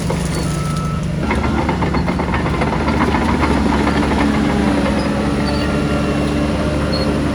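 Heavy diesel earthmoving machinery, most likely a Shantui bulldozer, running steadily with metallic clattering and rattling over the engine. The engine note shifts about a second in and again about three seconds in.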